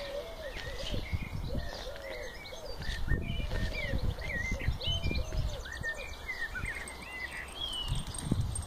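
Birds singing and calling: a run of short, low, arching coo-like notes repeated in quick succession, with many quick higher chirps and twitters among them. Irregular low thumps and rumble sit underneath.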